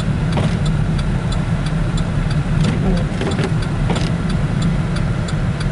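Steady low rumble of a car's engine and tyres heard from inside the cabin while driving slowly on a snowy road, with scattered light ticks and taps.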